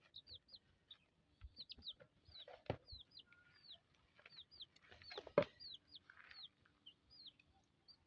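Young chickens peeping over and over in short, high, falling notes, about two or three a second. Two sharp knocks cut in, one just under three seconds in and a louder one about five and a half seconds in.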